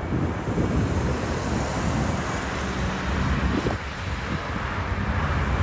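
Wind buffeting the microphone over a steady low rumble of airliner jet engines.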